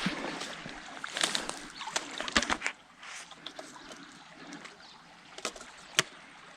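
Rustling and footsteps through grass and brush cover, with a few short sharp snaps, the loudest about six seconds in.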